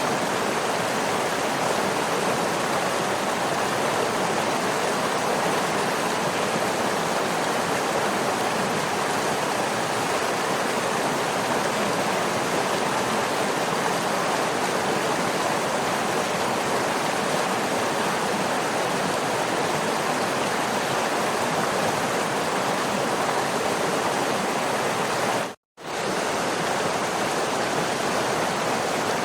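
Waterfall rushing steadily, an even unbroken wash of water noise, with a brief complete dropout to silence near the end.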